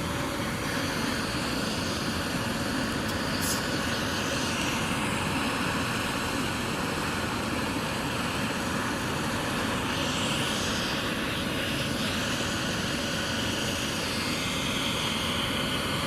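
Air ambulance helicopter running on the ground with its rotor slowed: a steady, even rush of turbine and rotor noise.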